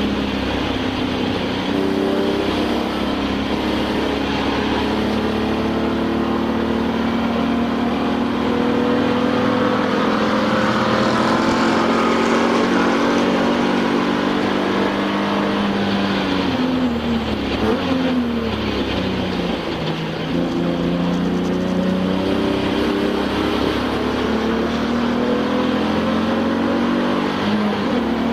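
Race car engine heard from inside the cabin at racing speed. Its pitch climbs and falls with the gear changes, drops steeply about two-thirds of the way in, then climbs again.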